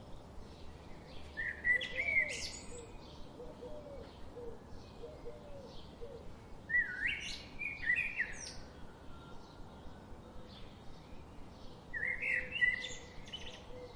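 Birds singing: one nearby bird gives a short song phrase of quick sweeping notes three times, about five seconds apart. Faint short chirps from other birds repeat steadily underneath.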